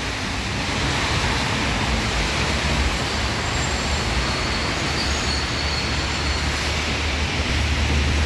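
Steady rain falling, an even hiss, mixed with the low rumble of street traffic.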